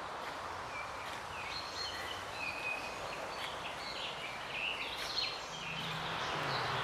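Outdoor ambience of small birds chirping and twittering over a steady background hiss, with a low hum joining near the end.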